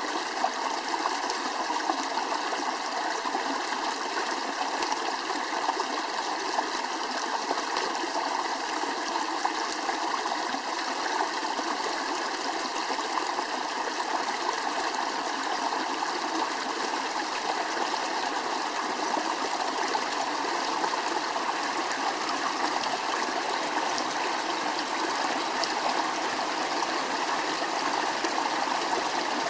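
Running water, a steady rushing flow like a stream.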